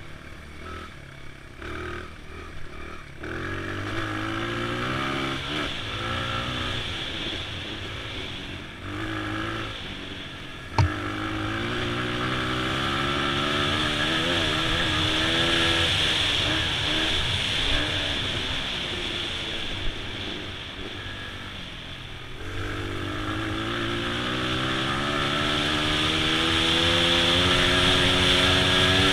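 Honda XR100 dirt bike's single-cylinder four-stroke engine running on the throttle, its revs rising and falling. A single sharp knock comes about eleven seconds in, and the revs climb steadily over the last several seconds.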